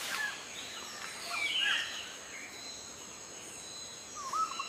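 Quiet outdoor nature ambience with a few short, faint bird chirps and a steady high-pitched insect whine.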